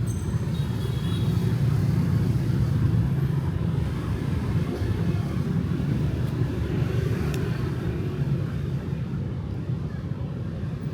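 Night street traffic: a steady low rumble of passing cars and motorbikes, with a brief faint high tone near the start.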